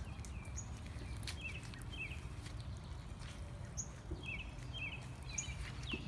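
Songbirds chirping outdoors: short high chirps repeated in two runs, about a second and a half in and again past the four-second mark, over a steady low background rumble.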